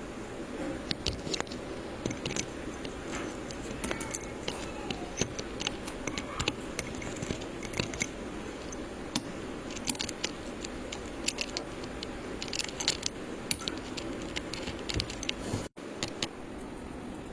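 Electrical wires being handled and worked by hand, giving scattered sharp clicks, ticks and short scrapes over a steady background hiss; the sound drops out briefly near the end.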